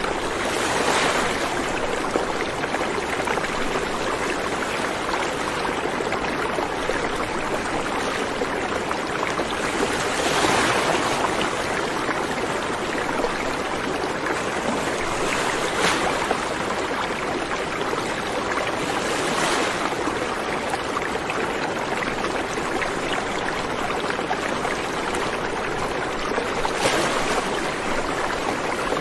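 River water rushing and babbling steadily, with brief swells every few seconds.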